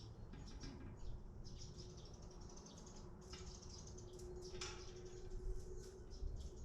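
Chickens in a coop: faint high chirps and peeps with scattered short scratchy clicks, over a steady low hum.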